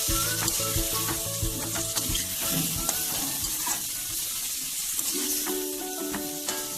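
Marinated chicken pieces sizzling in hot ghee with onion in a kadhai, stirred with a spoon that clicks and scrapes against the pan. Background music with held notes plays underneath.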